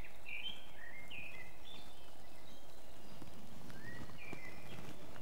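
Woodland birds singing: a scattering of short whistled notes, some sliding downward, over a steady low background noise.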